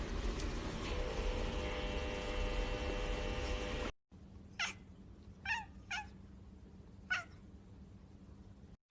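A cat meowing four times in short separate calls, each falling in pitch. The meows come after a steady hum that cuts off suddenly about four seconds in.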